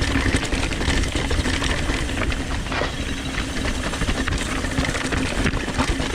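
Downhill mountain bike rolling over a rough trail: the Industry Nine rear hub buzzes steadily as it coasts, mixed with constant rattling of chain and frame over rocks and roots.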